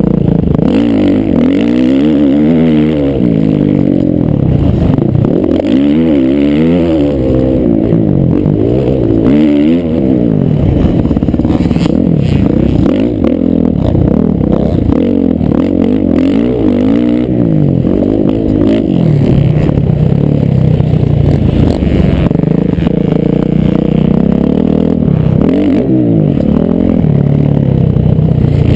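Motocross bike engines racing, revving up and dropping off over and over as the throttles open and close, several engines overlapping.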